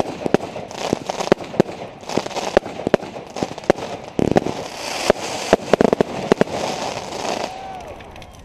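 Fireworks going off: a rapid, uneven series of sharp bangs over crackling, dying away near the end.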